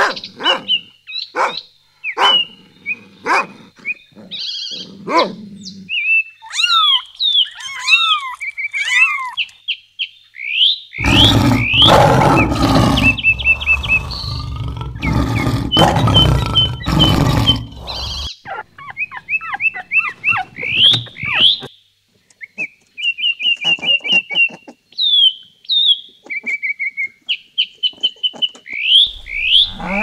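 Birds chirping and twittering throughout, with a lion roaring loudly for about seven seconds in the middle.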